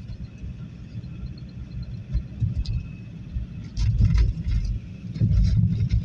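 Toyota Corolla Verso's D-4D diesel engine running: a low, uneven rumble that surges louder about four seconds in and again near the end, with a few short clicks.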